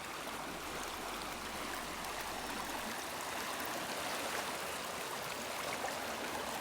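Woodland river flowing: a steady rush of running water.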